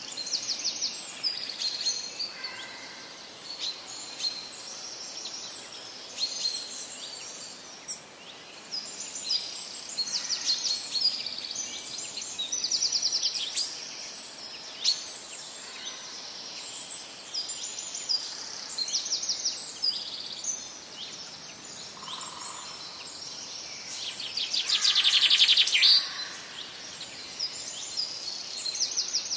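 Small birds chirping and trilling, with many short high calls overlapping; near the end one loud, rapid trill lasts a couple of seconds.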